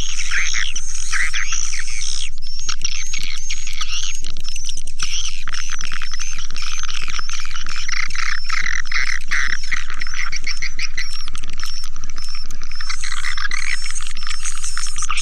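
Dense chorus of edible-nest swiftlet calls: rapid, overlapping twittering chirps with no break. It is a swiftlet lure recording, the kind played to draw swiftlets into a nesting house. A low steady hum runs underneath.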